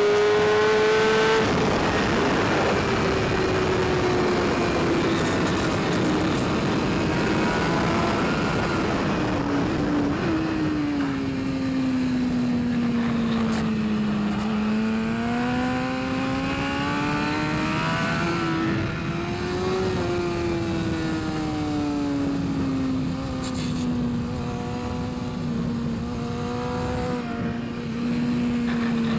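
BMW S1000RR inline-four superbike engine running hard at high revs on track. Its pitch falls slowly over the first dozen seconds, climbs again, dips, holds and rises near the end as the rider works the throttle and gears through the corners.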